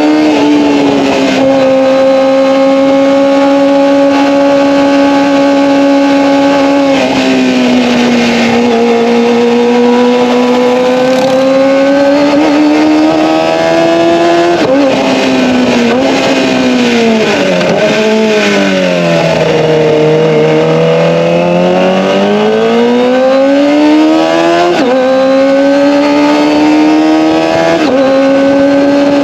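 Kawasaki ZX-25R's 250 cc inline-four howling at high revs through an Akrapovic Evolution exhaust while riding. The pitch holds high for long stretches and climbs and falls with the throttle, with a few sudden steps in pitch and one deep dip to lower revs partway through.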